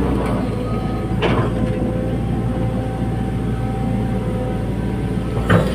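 Hydraulic excavator running steadily, a low engine drone with a steady whine over it, and two short metallic clanks, one about a second in and one near the end.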